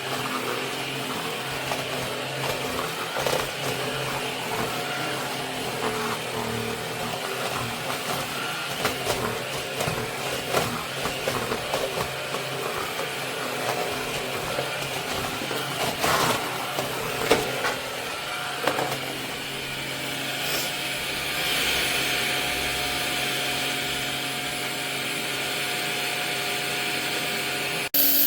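Cordless stick vacuum running steadily, with scattered clicks and knocks as it works. Its hiss brightens about two-thirds of the way through, and the sound cuts off abruptly right at the end.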